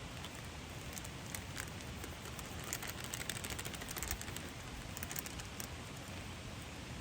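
Wood campfire crackling steadily, with a flurry of sharp pops and snaps around the middle.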